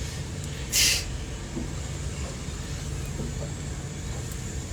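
A boat's motor running steadily with a low hum, and a short hiss about a second in.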